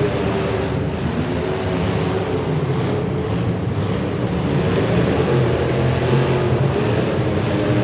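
Demolition derby cars' engines running and revving, a loud steady din.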